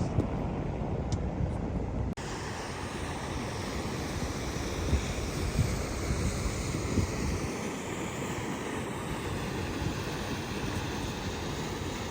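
Steady rumble and hiss of a vehicle driving, with road and wind noise on the microphone; the sound changes abruptly about two seconds in.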